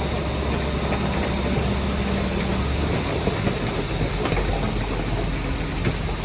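Heavy earthmoving diesel engine running steadily. Its low, even engine note changes and roughens about halfway through.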